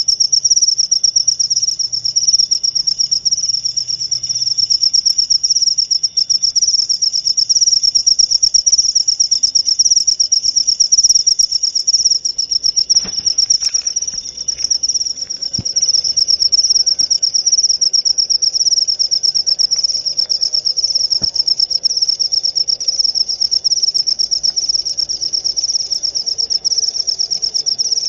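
Jaliteng crickets chirping in a continuous, rapidly pulsing high-pitched trill with no pauses.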